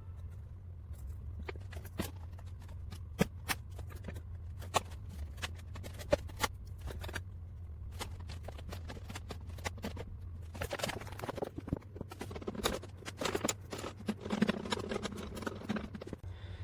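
Scattered light clicks and taps of brake pipes being handled and bent, with denser rustling from about ten seconds in, over a steady low hum.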